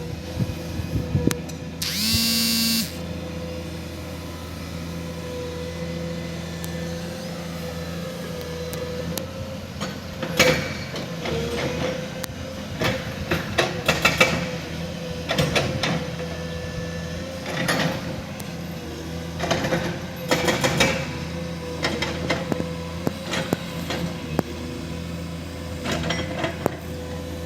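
Excavator diesel engine running steadily under a constant whine, with a loud, high-pitched squeal about two seconds in that lasts under a second. From about ten seconds on, repeated clusters of sharp knocks and clatter as the bucket works the rock.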